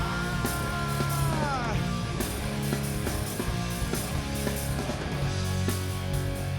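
Live hard rock band playing: electric guitars, bass and drums. In the first two seconds a held high note bends down in pitch, over a steady bass and regular drum hits.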